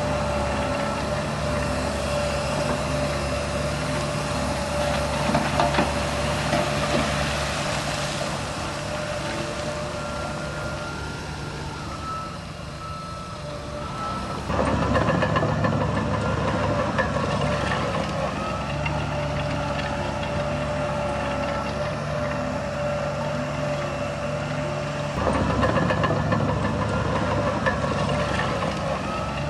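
Heavy diesel earthmoving machinery, bulldozer and dump truck, running steadily with a steady high-pitched tone over the engine noise. The sound drops a little just before halfway, then jumps louder abruptly about halfway through and again near the end.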